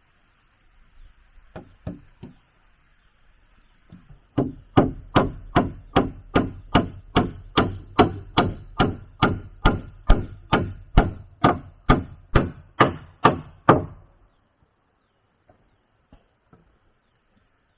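A tool striking wood in a steady run of some two dozen sharp blows, about two and a half a second, each with a dull thud, after a few faint knocks.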